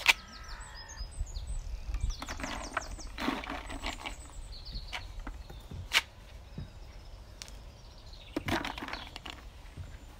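Outdoor ambience: small birds chirping in short, quick rising notes over a low steady rumble. A sharp click right at the start and another about six seconds in, with a few brief rustling bursts in between.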